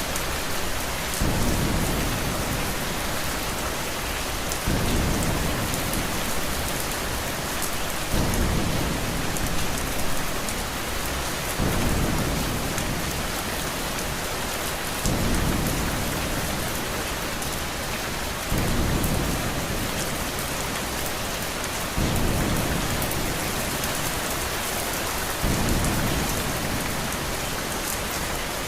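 Steady rain hiss with low thunder-like rumbles that swell and fade at an even pace, about every three and a half seconds.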